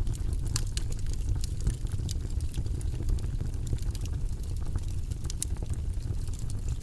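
Wood fire burning in a fireplace: a steady low rumble of the flames with frequent sharp pops and crackles from the burning logs.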